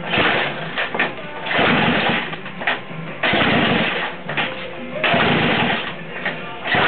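A 1977 Honda CB750's inline-four engine being turned over by repeated kicks on the kickstarter, about four bursts of cranking, each about a second long, without catching.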